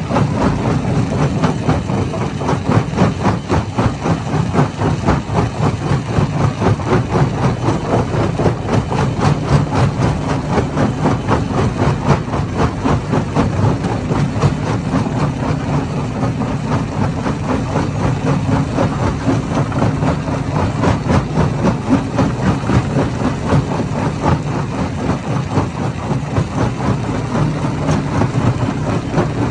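Hammer-type stone crusher running steadily: a loud, continuous heavy mechanical din with a dense, rapid rattle.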